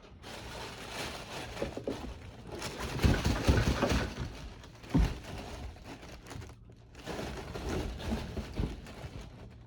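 Cardboard and paper packaging being handled and crumpled, rustling and crinkling with several knocks. The loudest stretch is about three to four seconds in, with one sharp knock about five seconds in.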